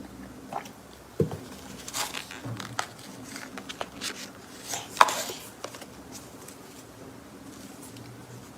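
Eating and tableware handling: a scatter of short clicks and taps, the sharpest about a second in and about five seconds in, over a low steady hum.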